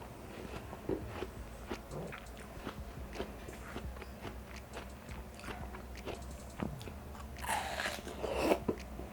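Close-miked eating of watermelon: juicy, crunchy bites into the flesh and wet chewing with many small clicks, with two louder bites near the end.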